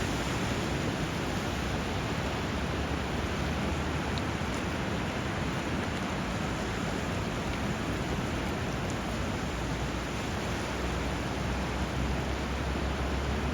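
Steady, even rush of flowing river water and sea surf where a river meets the sea, with a low rumble that swells near the end.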